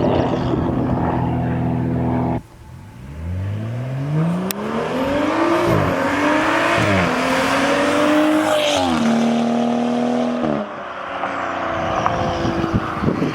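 Straight-piped BMW M235i's turbocharged inline-six, exhaust with no muffler or resonator, accelerating hard. Its pitch climbs, then drops sharply at each upshift (two or three times), holds steady, and falls off when the throttle is lifted near the end.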